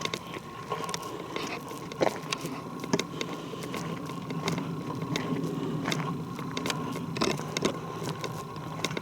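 Footsteps crunching and snapping on the forest floor while walking downhill, as irregular clicks and scrapes. A low rumble swells in the middle and fades near the end.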